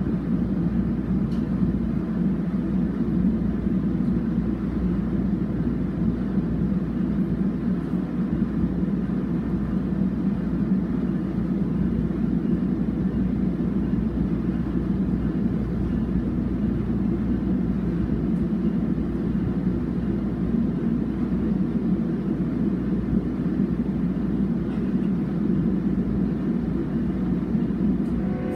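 Steady low rumble of a commuter train heard from inside a passenger car as it pulls out of the station and runs on.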